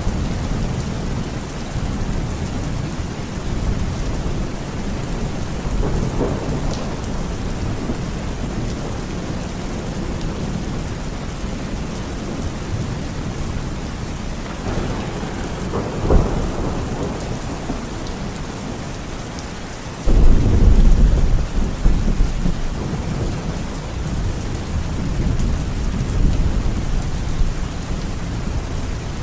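Steady rain falling in a thunderstorm, with low rolls of thunder; a louder, sudden thunder rumble breaks in about two-thirds of the way through.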